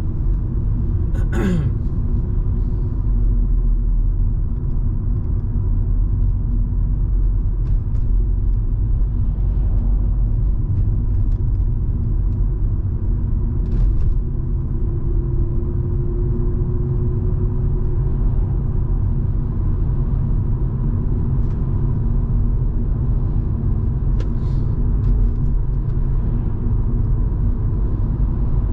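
Steady low rumble of engine and road noise inside the cabin of a Volvo V70 2.5T, with its turbocharged five-cylinder running at a steady cruise. There is a brief sharp sound with a falling pitch about a second and a half in.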